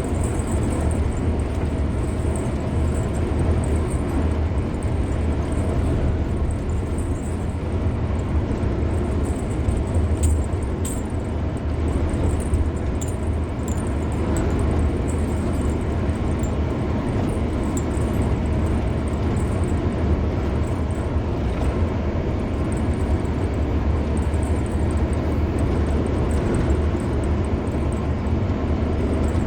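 A car driving steadily at road speed: continuous tyre and road noise, mostly a low rumble with a lighter hiss above it.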